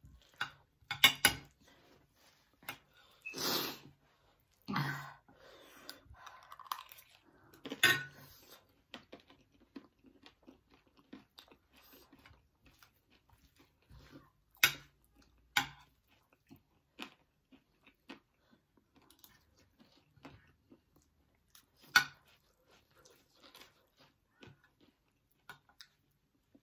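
People chewing and crunching mouthfuls of chatpate, a spiced puffed-rice snack, with scattered sharp clinks of metal spoons against ceramic plates.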